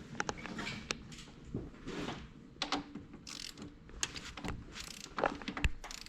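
Irregular clicks, knocks and short rattles of hand tools and car parts being handled.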